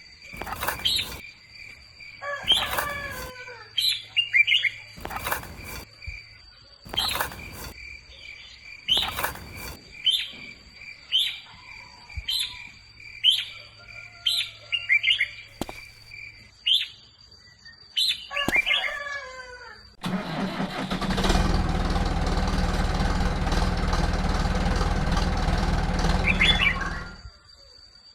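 Small birds chirping repeatedly, with sharp knocks every second or two. About two-thirds of the way through, a steady mechanical hum with a low rumble starts, runs for about seven seconds and cuts off suddenly.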